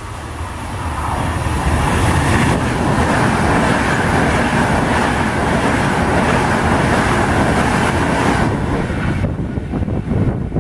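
Electric passenger train passing through the station at speed. Its noise swells over the first two seconds and holds loud for several seconds as the carriages go by, then drops away near the end.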